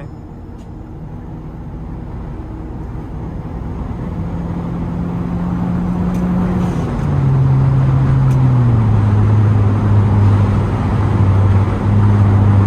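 Turbocharged Kia's engine and exhaust pulling hard while the car accelerates, heard from inside the cabin, growing louder throughout. The engine note drops in pitch twice, about seven and eight and a half seconds in.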